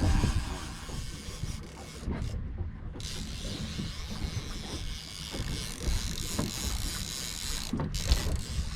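Wind and water noise aboard a small drifting fishing boat: an uneven low rumble of wind on the microphone over the wash of the sea.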